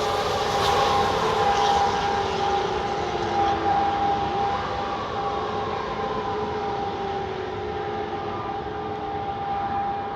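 Fire truck siren winding down, its pitch falling slowly, rising briefly about four and a half seconds in and falling again, while a steady high tone holds underneath and the sound fades slightly.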